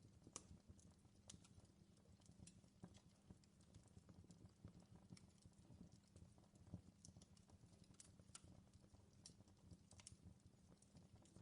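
Faint crackling of a wood fire in a fireplace: irregular pops and snaps over a low steady rumble.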